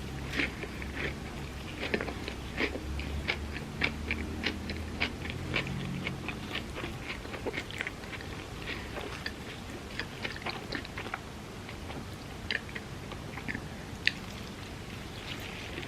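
Close-up eating sounds: a person biting and chewing crispy fried food, with frequent crisp crunches and one sharper crunch near the end.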